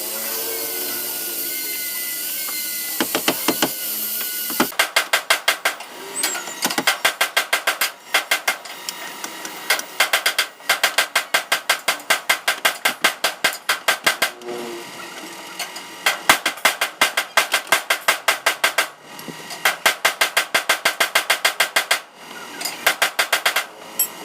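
Rapid bursts of hammer strikes on car body panelwork, about six or seven blows a second in runs of a few seconds with short pauses, quickened by sped-up footage. Before the first run there is a steady hiss.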